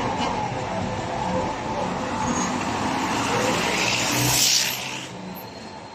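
Road vehicle noise, swelling to a peak about four and a half seconds in and then falling away quickly, as a vehicle goes past.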